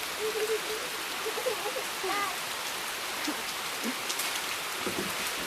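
Steady rain falling, an even hiss, with faint distant voices calling out now and then in the first couple of seconds.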